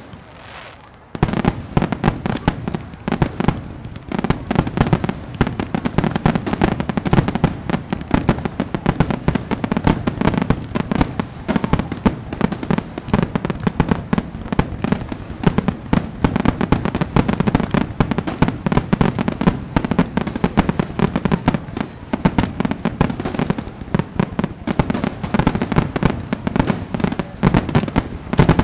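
Fireworks display: rapid, overlapping bangs and crackling that go on almost without a break, after a short quieter lull at the start.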